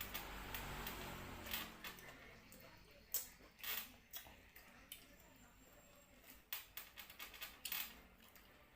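Someone eating: soft chewing with a scattering of short sharp clicks and crunches.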